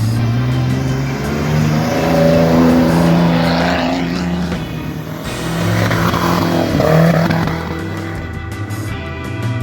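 Off-road 4x4's engine running under load and revving, its pitch rising and falling several times, with background music.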